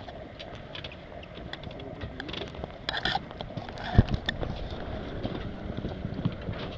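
Wind rumbling on the microphone aboard a sailboat under way, with scattered clicks and knocks of gear on deck and one louder thump about four seconds in.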